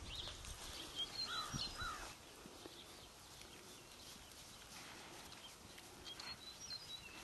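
Faint outdoor ambience with scattered short, high bird chirps: several in the first two seconds and a few more near the end.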